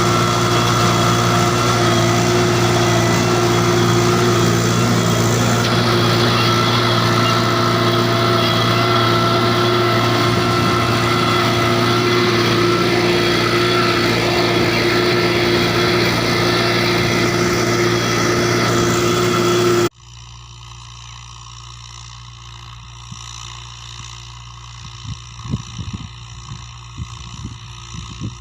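Tractor diesel engine running loud and steady at constant speed. About twenty seconds in it cuts off abruptly to a quieter engine hum with scattered knocks and rattles.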